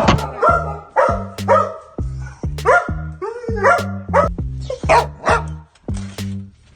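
Dogs barking and yipping in a quick series of short barks, about two a second, as an excited welcome for someone coming home. Background music plays underneath.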